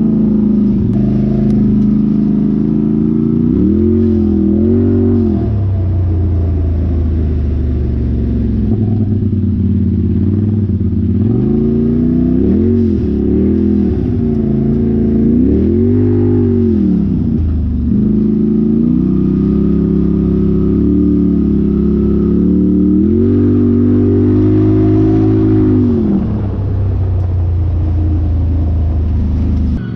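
An off-road vehicle's engine running under load, revving up and easing back off several times over a steady low rumble.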